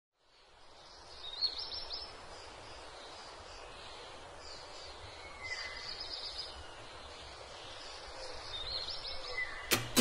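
Faint outdoor ambience with a soft steady hiss, and a bird giving a short high trill three times. An acoustic guitar starts strumming just before the end.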